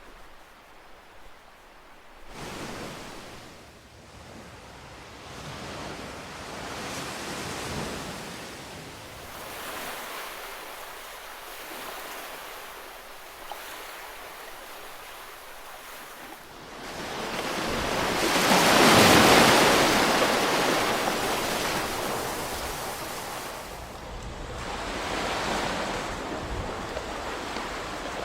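Ocean waves breaking and washing up the shore in slow swells. The largest wave rises to a peak about two-thirds of the way through, and a smaller one follows near the end.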